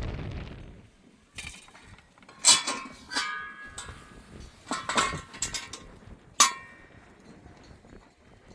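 A series of sharp knocks and clinks, about six spread over five seconds, several with a short metallic-sounding ring after them.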